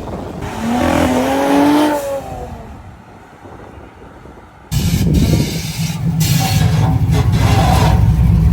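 A car engine revs up as the car accelerates away, rising in pitch and then fading out. A few seconds in it is abruptly replaced by a loud, steady, deep rumble.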